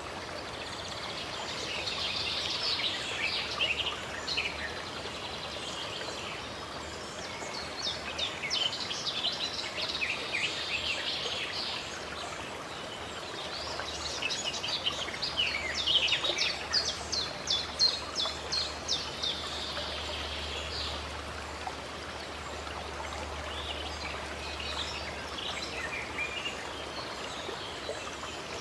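Small birds chirping and singing in several bouts of rapid high notes over a steady hiss of running water.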